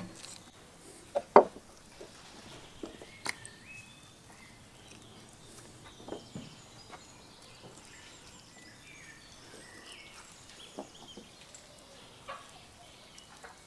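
Birds calling faintly in the background, with a handful of sharp knocks, the loudest about a second and a half in.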